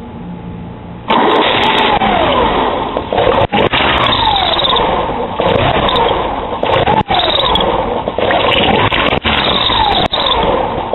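Porsche 944's four-cylinder engine cranking on the starter without catching, in long bursts with a few brief breaks, beginning about a second in. It cranks but won't fire while the accessory belt to the alternator and AC compressor is fitted.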